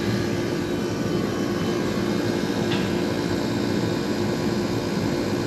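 Rooftop R-22 air-conditioning unit running steadily, its compressor and condenser fan giving an even hum with a steady tone. The system is low on refrigerant and is being charged with gas.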